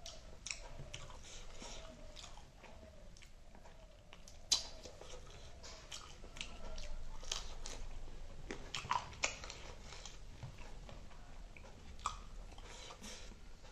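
A person chewing and biting a mouthful of rice and spicy chicken wings, with many short, sharp mouth clicks at irregular intervals.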